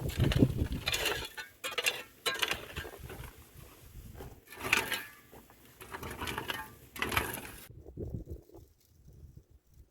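Irregular rustling and scraping of things being handled, in uneven strokes that stop about three quarters of the way in.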